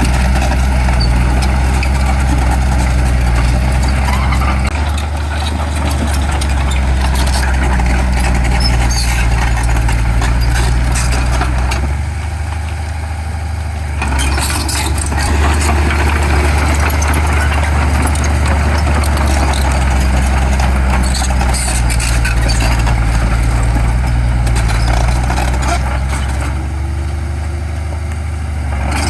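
Heavy diesel engine of earthmoving machinery running under load, with a deep steady hum. It eases off briefly about twelve seconds in and again near the end, where a short rising whine is heard.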